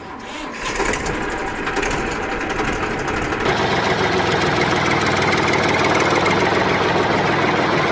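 Mini tractor engine running steadily with a rapid, even firing beat. It grows a little louder over the first second.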